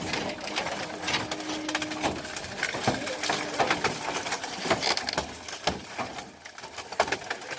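An old car being crushed by heavy machinery: sheet metal crunching and creaking, with many irregular sharp cracks and snaps.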